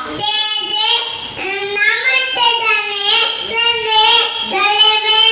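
Children singing together without accompaniment, holding long notes of a slow song.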